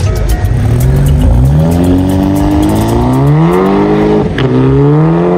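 Car engine accelerating hard, its pitch climbing steadily, dropping sharply at a gear change just past four seconds in, then climbing again before falling off abruptly near the end.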